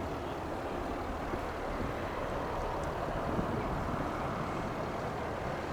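Steady, even roar of jet aircraft engines across the airfield.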